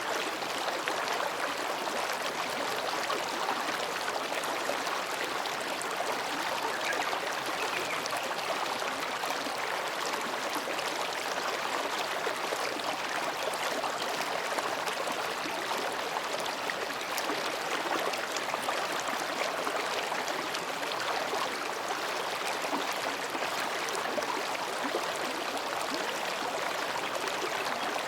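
Mountain stream babbling steadily over and between rocks.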